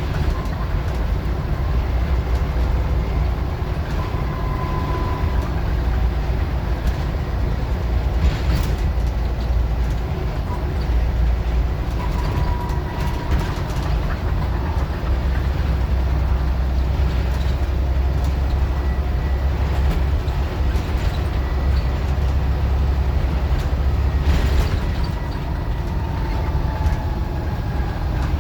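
Scania N94UD OmniDecka double-decker bus being driven hard: a steady heavy engine drone with a faint whine that comes and goes, and a few brief rattles.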